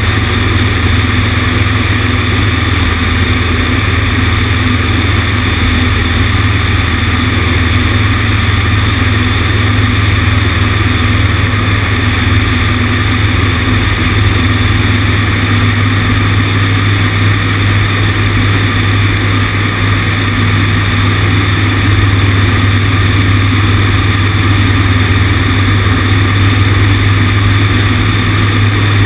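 Cessna 150's Continental O-200 four-cylinder engine and propeller running at a steady setting, a loud low drone with air rushing past the wing-mounted camera.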